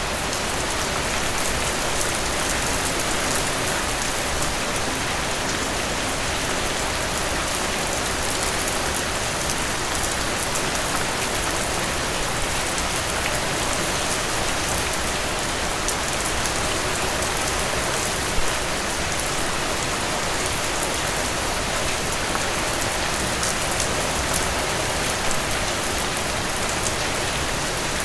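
Steady, dense rainfall on a surface, with many fine drop impacts and an occasional louder drip.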